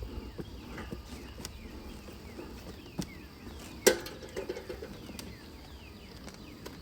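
Small birds chirping, many short falling chirps overlapping, with scattered light clicks and one sharp knock about four seconds in.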